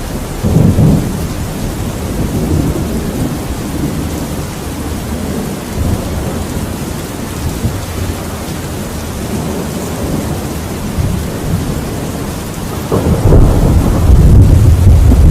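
Thunderstorm: steady rain with rolling thunder. A short burst of thunder comes about half a second in, low rumbles come and go through the middle, and a louder, longer roll of thunder builds from near the end.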